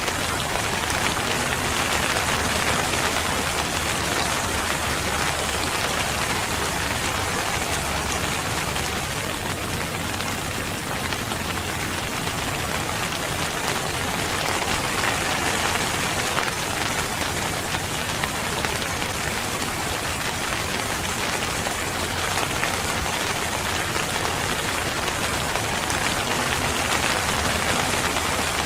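Steady rain falling on a surface, an even, dense patter with no breaks.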